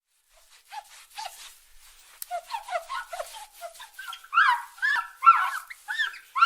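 A quick run of short, arching animal squeals or yelps, many overlapping. They start faint and build, growing louder and more crowded over the last couple of seconds.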